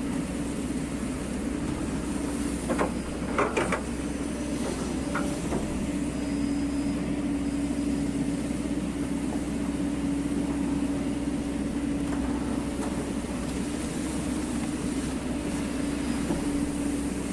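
Hydraulic excavator's engine running at a steady pitch, with a few short knocks from the machine about three seconds in.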